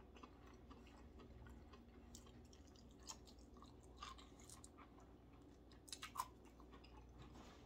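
Very quiet chewing of grilled asparagus, with a few faint wet mouth clicks and smacks about three, four and six seconds in.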